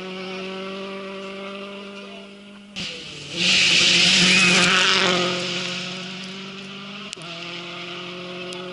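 A rally car passing close: a loud rush of engine and gravel noise swells about three and a half seconds in and fades out over the next two seconds. A steady buzzing hum sits before and after it.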